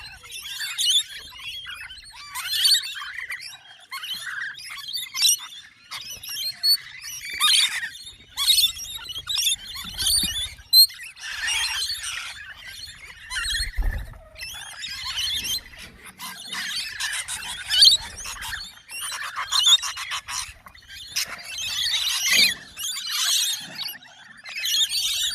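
A flock of birds calling close by, many high-pitched squawking calls overlapping in dense, uneven bursts, with a couple of low bumps near the middle.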